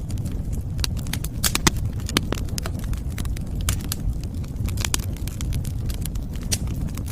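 Wood fire crackling, with sharp pops at irregular intervals over a low steady rumble.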